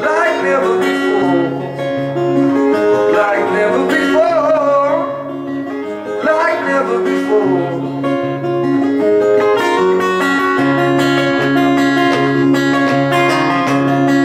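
Acoustic guitar strumming chords in a live performance, with a wavering melody line over it in the first half that falls away, leaving the guitar alone near the end.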